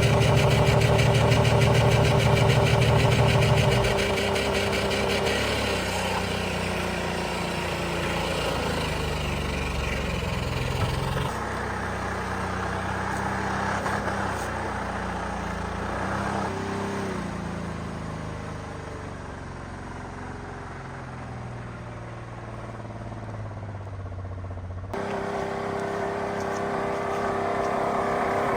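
Engine of a 2004 Ford Taurus, a 3.0-litre V6, running with dish soap in place of motor oil, its pitch rising and falling as it is revved. The sound changes abruptly about 11 and 25 seconds in.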